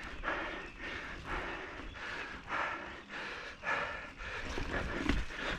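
A person breathing hard in rhythmic heavy breaths, about one a second, winded from a steep uphill climb on a mountain bike.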